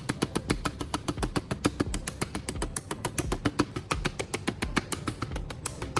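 Quick, uneven clicking taps, about five or six a second, from a tool packing wax-and-sand paste into the gap between the kettle's metal shells.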